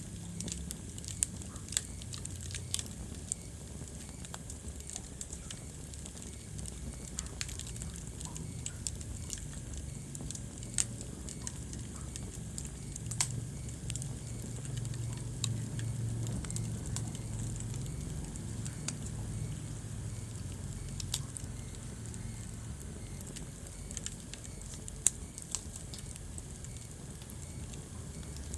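Wood fire burning in a fireplace: irregular sharp crackles and pops, a few much louder than the rest, over a steady low rumble.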